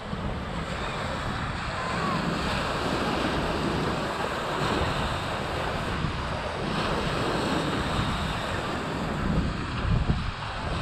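Ocean surf washing steadily, with wind buffeting the microphone and a few stronger low gusts near the end.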